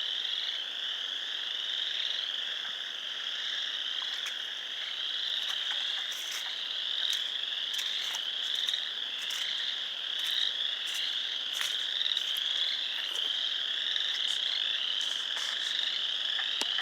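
A pond's frog chorus: a dense, continuous mass of high-pitched calls, with sharper single calls standing out every second or so.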